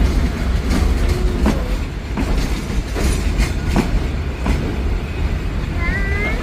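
A train running on the rails: a heavy rumble with wheels clacking over rail joints about every three-quarters of a second.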